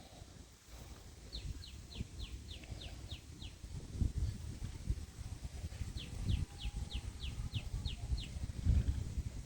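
A bird calling twice, each call a quick run of about nine short, high, down-slurred notes at roughly four a second, over low, gusty wind rumble on the microphone.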